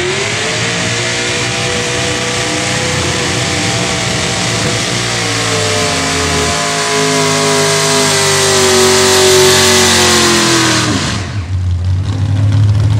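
Four carbureted Ford 460 V8 engines of a modified pulling tractor at full throttle during a pull. The revs hold high, then sag slowly in pitch through the second half. About eleven seconds in the throttle is cut and the engines drop suddenly to a low idle.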